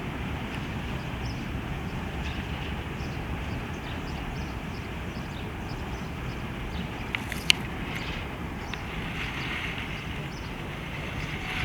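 Freight train rolling past with a steady rumble, and a few sharp metallic clicks from the wheels and wagons about seven seconds in.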